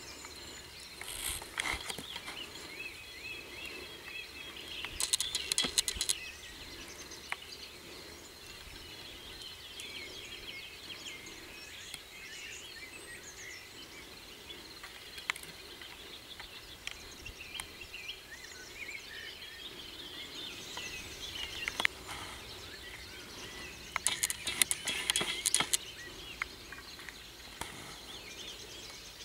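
Birds singing and chirping over steady outdoor ambience, with two short bursts of sharp crackling clicks, about five seconds in and again near the end.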